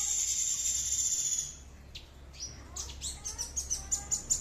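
A songbird singing: a loud, harsh, buzzing trill held for about a second and a half, then after a short pause a quick run of high chirps that climb in pitch.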